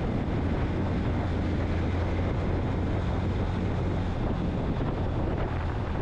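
Steady wind rush on the microphone with a low rumble, from riding a Yamaha FZ-X motorcycle at highway speed.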